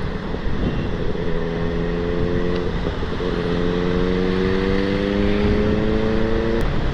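Benelli 600i inline-four engine pulling on the highway, its pitch climbing steadily, with a short break about three seconds in, under a heavy rush of wind noise.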